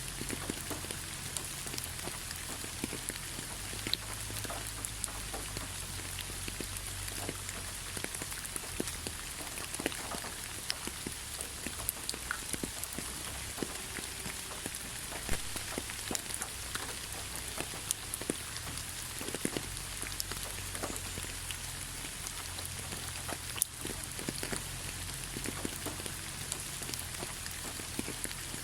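Steady rain, with a constant hiss and many separate drops tapping close by.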